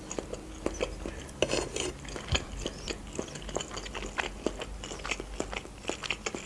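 Close-miked mouth sounds of chewing a mouthful of fusilli pasta in cream sauce with sausage: soft wet smacks and clicks at an irregular pace.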